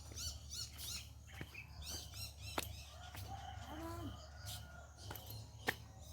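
Small birds chirping in quick runs of repeated high notes, busiest in the first couple of seconds, with a few sharp clicks, the loudest about two and a half and five and a half seconds in.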